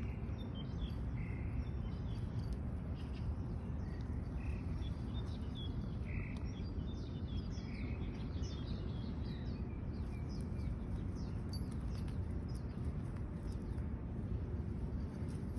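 Small birds chirping in short scattered calls over a steady low background rumble of outdoor noise.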